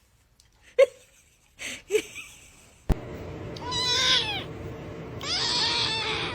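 A cat meowing: a couple of short meows, then two long, high-pitched meows over a steady background hiss.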